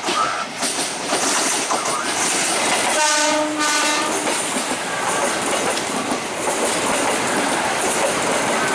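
Indonesian railway inspection train passing close by, its wheels clattering over the rails, with a horn blast about three seconds in that lasts about a second.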